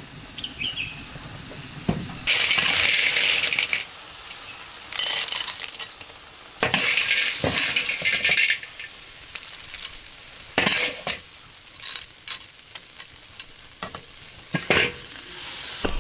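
Stir-frying in a wok: loud bursts of sizzling each time the food is turned, lasting one to two seconds, with sharp clinks and knocks of the spatula against the wok in between.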